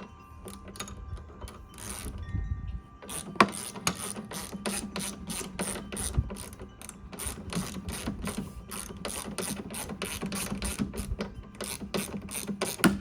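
Rear drive wheel of a Honda walk-behind lawn mower turned by hand, its ratchet pawls clicking steadily about three to four times a second: the sign that the new wheel's drive ratchet is catching.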